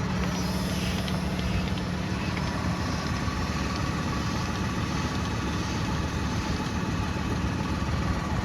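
An engine idling steadily: an even low hum with a constant low tone and no change in speed.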